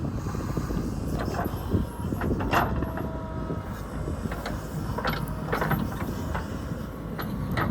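Heavy earthmoving machine running with a steady low engine rumble, with several sharp metallic clanks and faint squealing tones from its working parts.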